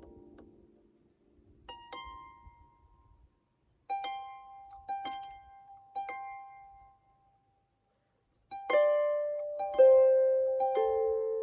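Harp played slowly: single plucked notes ring out and die away one at a time, with a short pause in the middle. After the pause, deeper notes come in and ring louder.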